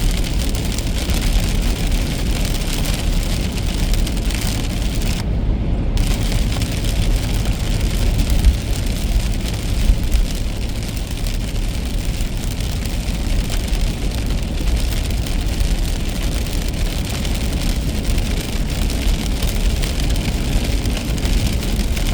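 Steady rain hiss on a moving car over a low road rumble from the tyres and engine.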